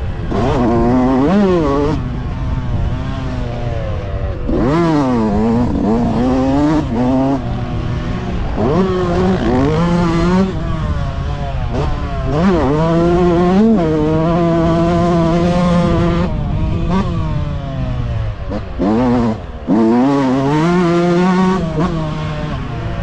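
Motocross bikes racing, their engines revving up and dropping back again and again as riders open and close the throttle, with a brief dip in the sound a little before the end.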